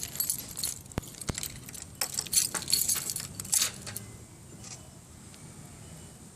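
A bunch of keys jangling and clinking, with two sharp clicks a little after a second in, as the key is handled at the motorcycle's ignition. The jangling stops about four seconds in. The engine is not yet running.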